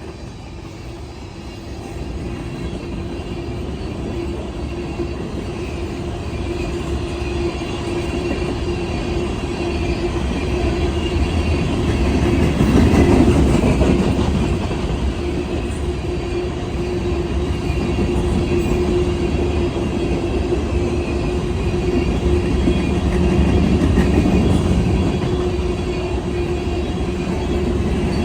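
Train rolling past, growing louder over the first half and staying loud, with a steady tone held throughout.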